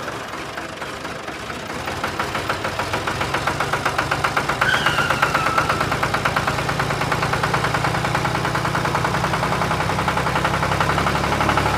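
Engine running with a steady, rapid knocking pulse that grows louder over the first few seconds, with a brief higher whine about five seconds in.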